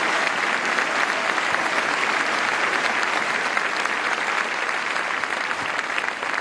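Stadium crowd applauding, a dense steady clapping that slowly fades towards the end.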